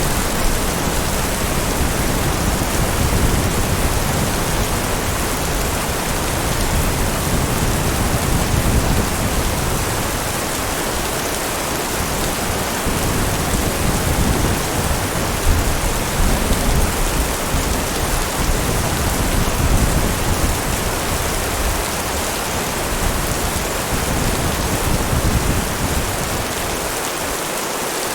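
Heavy rain falling steadily in a dense, even hiss, with a low rumble underneath that swells and fades every few seconds.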